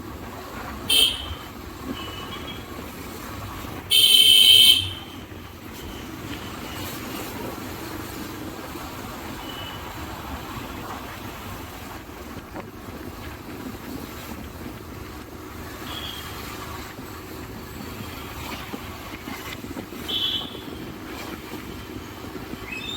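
Steady outdoor traffic rumble with short horn blasts: one about a second in, a longer and louder one at about four seconds, and another near the end.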